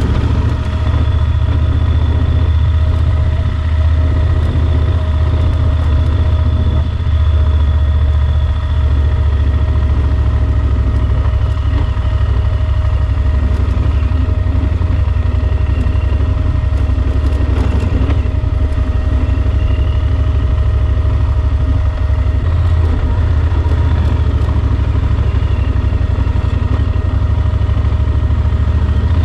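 Yamaha Super Ténéré XT1200's parallel-twin engine running at a steady speed, with a loud, constant low rumble.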